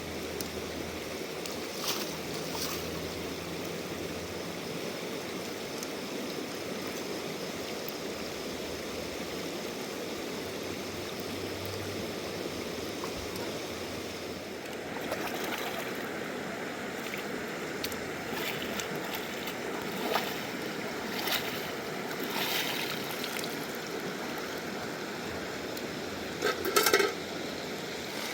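A river rushing steadily, its sound thickening a little about halfway through. A few brief knocks or clatters cut in over it, the loudest pair near the end.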